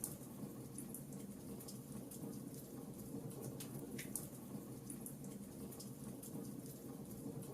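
Wood fire crackling in a fireplace: irregular sharp crackles and a few louder pops over a steady low rumble of the flames.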